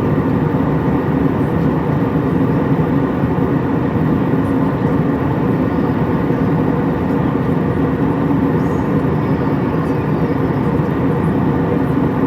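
Steady, loud cabin noise inside an Airbus A321 airliner: the even rush of jet engines and airflow, with no change in level.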